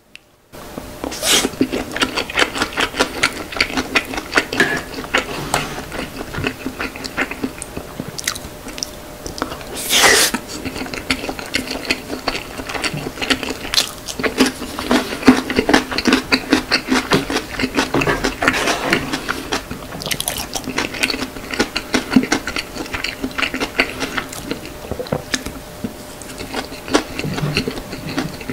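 Close-miked chewing of chicken and sauce-mixed rice: a dense run of wet smacks and mouth clicks, starting about half a second in, with one louder burst about ten seconds in.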